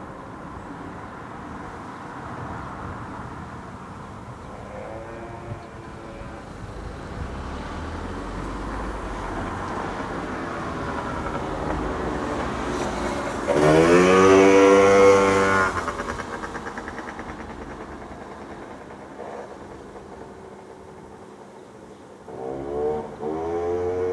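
Motor vehicles passing on a road: one engine comes up loud past the microphone with its pitch rising as it accelerates, then fades away, and another vehicle approaches near the end.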